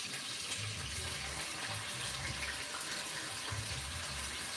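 Crumbled sausage with chopped onion, bell pepper and celery sizzling in hot olive oil in a pot: a steady hiss, with a few soft low thuds.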